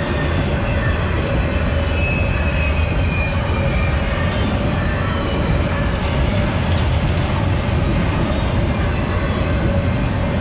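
A BNSF freight train of empty intermodal well cars rolls past, its steel wheels giving a steady rumble and rattle on the rails with a constant humming tone. A thin, slightly falling high squeal comes in briefly about two to four seconds in.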